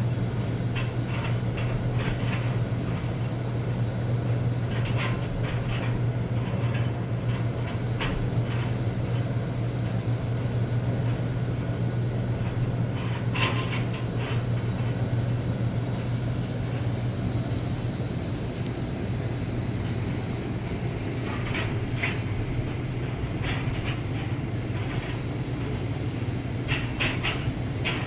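Oil furnace running: a steady deep hum with irregular ticks and rattles over it.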